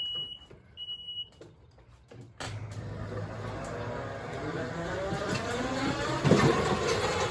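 A repeated high electronic beep, twice in the first second and a half, then about two and a half seconds in the Ryobi 48V electric zero-turn mower's drive motors come on with a hum and a whine that rises in pitch as it pulls away.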